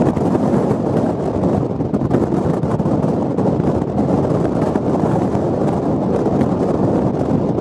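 Storm wind of over 80 mph buffeting the microphone: a loud, steady rumble that flutters rapidly in level, with no let-up.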